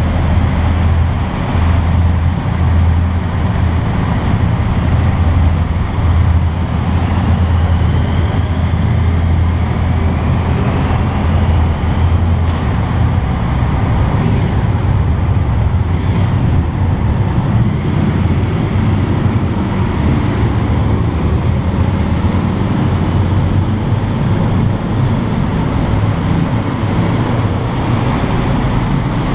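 Yamaha TDM 900's parallel-twin engine running at a steady cruise in a road tunnel, mixed with road noise. Its low drone weakens about twelve seconds in.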